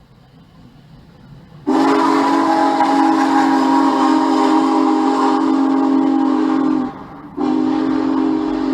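Union Pacific Big Boy 4014's steam whistle blowing a chord of several steady tones. One long blast of about five seconds starts about two seconds in, then after a brief break a second blast begins. A faint low rumble builds before the first blast.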